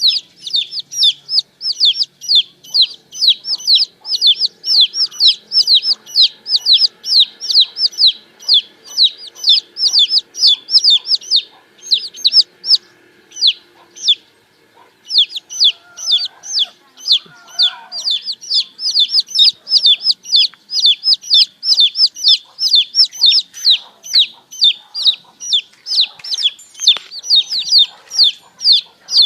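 Baby chicks peeping: a rapid, continuous stream of high, short cheeps that fall in pitch, about three or four a second, with a brief break about halfway through.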